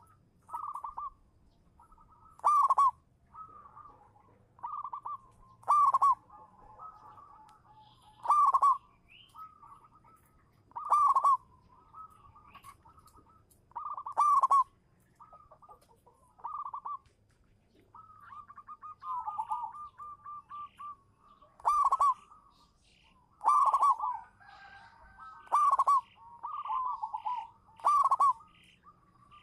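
Zebra dove (perkutut) cooing its song: a phrase of quick short notes ending in a loud coo, repeated about every two to three seconds, with a rapid run of short notes a little past the middle.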